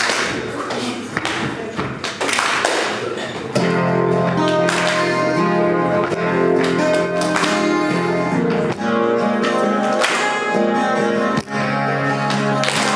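Acoustic guitar starts playing chords about three and a half seconds in, after a few seconds of scattered noisy knocks, and carries on steadily.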